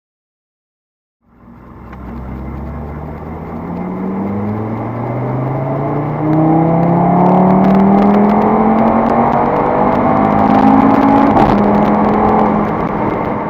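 Audi RS3's turbocharged 2.5-litre five-cylinder engine pulling hard under full acceleration, its pitch climbing slowly and getting louder, with a jump in loudness about six seconds in. It cuts in after about a second of silence.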